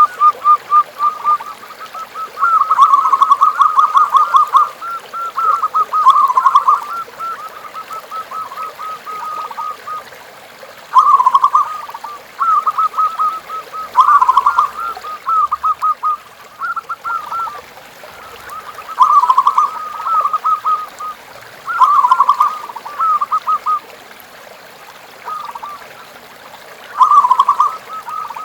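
Zebra doves (perkutut) cooing: repeated bursts of rapid, stuttering notes, one phrase every two to three seconds.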